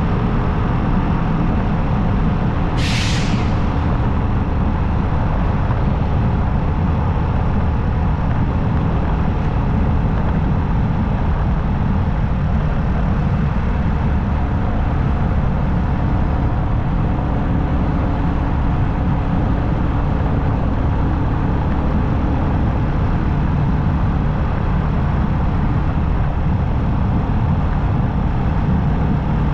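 Motorcycle riding at a steady pace: a constant engine drone mixed with road and wind noise. About three seconds in there is one short, sharp hiss.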